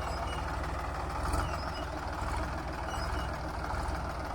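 Tractor engine running steadily with an even low rumble.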